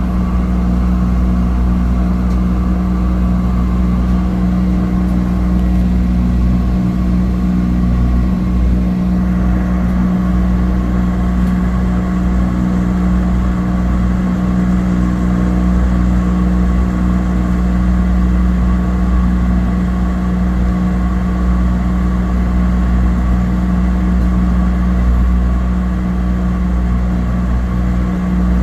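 Cessna 208 Caravan's PT6A turboprop engine and propeller droning steadily in flight, heard inside the cabin. The low propeller hum carries a few steady tones, with a hiss over it that grows slightly louder about nine seconds in.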